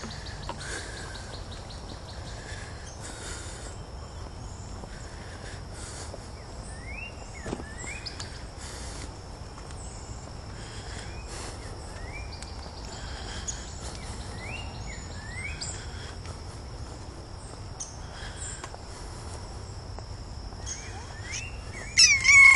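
Outdoor ambience: a steady high insect trill runs on, with a series of short rising bird chirps through the middle. Just before the end a cat meows loudly.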